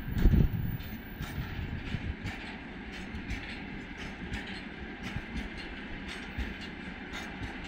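Freight wagons of a passing goods train rolling by: a steady low rumble of steel wheels on rail, with frequent irregular clicks of the wheels over rail joints. There is a louder low thump just after the start.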